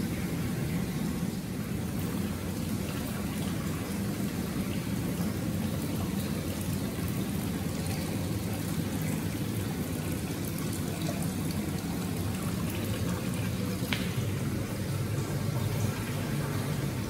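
Water running steadily into a bath in a tiled bathhouse, a continuous low rush with a few faint drips.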